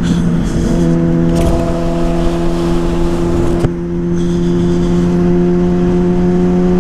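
Yamaha Fazer 600 (2009) inline-four engine running at a steady speed through an aftermarket WR exhaust tip, with road and wind rush. A single sharp click about three and a half seconds in, followed by a brief dip in the engine sound.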